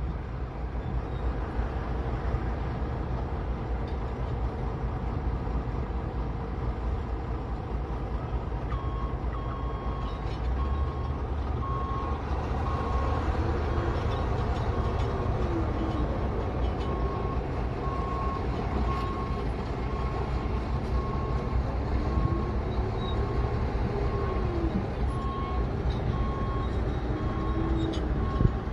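Diesel engines of heavy equipment running, with a backup alarm starting to beep steadily about a third of the way in as a machine reverses.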